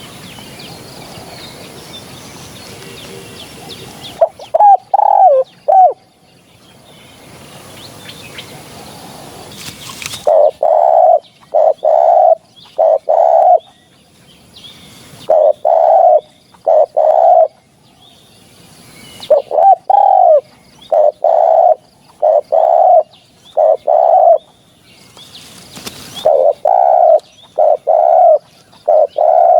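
Spotted dove cooing in repeated phrases of several short notes, separated by pauses of a second or two. A steady hiss with faint chirping of other birds fills the first ten seconds.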